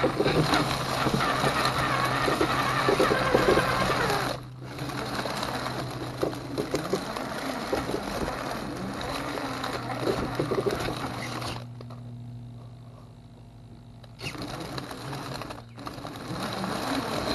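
Axial SCX10 II RC crawler's electric motor and gear drivetrain whirring steadily as it drives, with rattling from the chassis over terrain. It cuts out briefly a few times, once going quiet for about two seconds as the throttle is let off.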